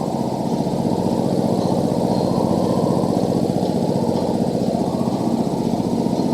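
Industrial rotary screw air compressor running steadily with a continuous low hum.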